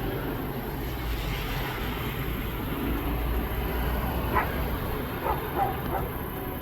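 Dogs barking in the distance, four short barks in the second half, over a steady high-pitched drone of crickets and a low rumble that eases off partway through.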